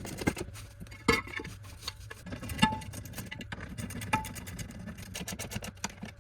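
BMW E46 engine idling with a fast, even mechanical patter, running on its freshly refitted exhaust. A few sharp metallic clinks come about a second in, again past two and a half seconds and near four seconds, the last two ringing briefly.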